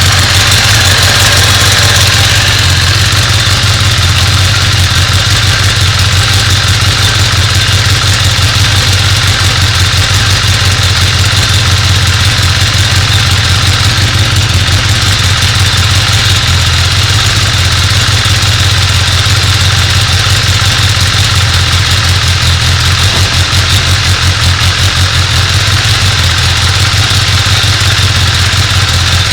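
2014 Kawasaki Ninja ZX-10R's inline-four engine idling steadily, just refilled with fresh oil and run to check for leaks.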